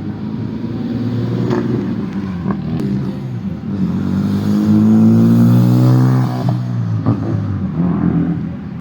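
A car engine revving and accelerating past. Its pitch and loudness rise to a peak about five seconds in, then fall away, with a few short sharp knocks along the way.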